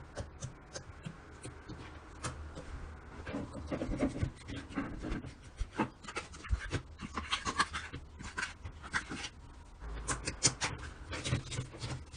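Slime being squished and kneaded by hand: a run of irregular sharp wet clicks and pops.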